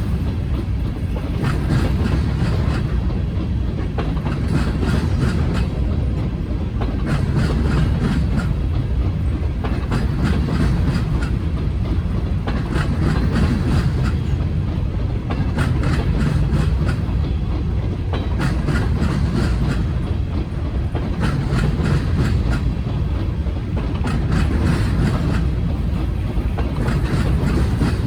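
Freight train of grain hopper cars rolling past, its wheels clicking over rail joints in recurring clusters every couple of seconds over a steady low rumble.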